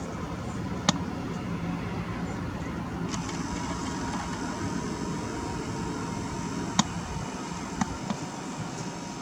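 Steady low rumble of distant road traffic, with three sharp clicks: one about a second in and two close together near the end.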